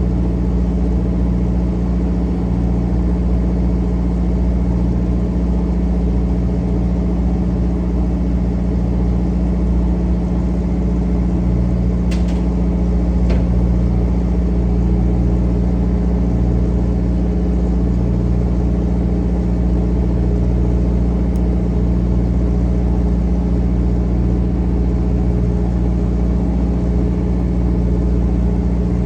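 Fishing trawler's engine running steadily with a low drone, with two short clicks about twelve and thirteen seconds in.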